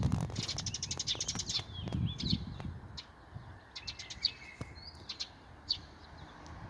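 Small songbirds chirping and calling, with a fast trill about half a second in that lasts about a second, then scattered single chirps. Low rumbling swells come near the start and again around two seconds in.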